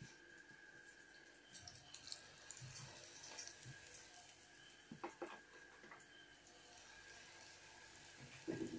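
Faint sizzling of dough pies frying in shallow vegetable oil in a frying pan, with a few small clicks and taps.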